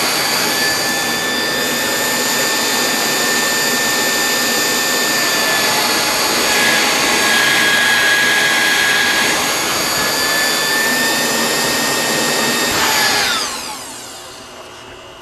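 Home-built turbocharger jet engine on a test rig spinning at speed: a loud, steady high whine over a rushing noise. About thirteen seconds in it winds down, the whine falling in pitch and the noise dropping away.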